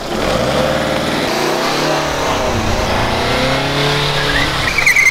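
MINI hatchback's engine revving as the car pulls away and drives past, its pitch rising and falling. A brief high squeal near the end.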